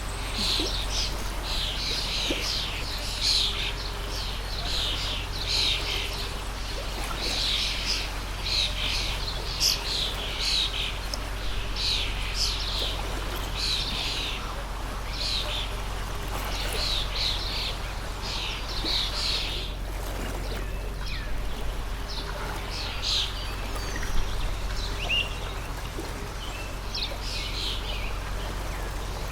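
Birds chirping rapidly, call after call, thinning out after about twenty seconds, over the steady rush of a flowing stream.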